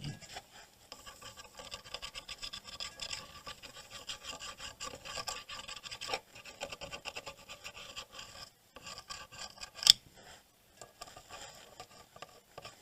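Quick repeated scraping or rubbing strokes on a circuit board, a few per second, stopping briefly about eight and a half seconds in. A single sharp click about ten seconds in is the loudest sound.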